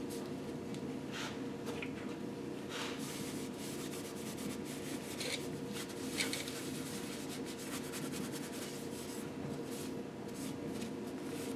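Short, uneven scraping and rubbing strokes on an aluminium piston as its ring grooves are cleaned by hand, over a steady low hum.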